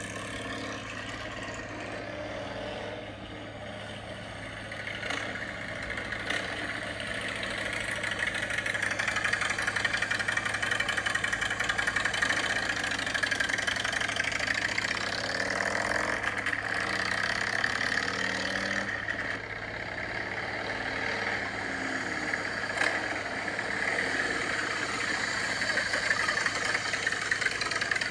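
Motorcycle engines running and idling, growing louder from about five seconds in.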